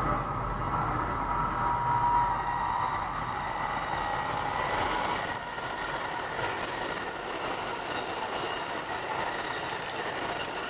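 Saikyo Line commuter train running on the track, heard from inside the car, with a steady rumble of wheels and faint squealing tones from the wheels.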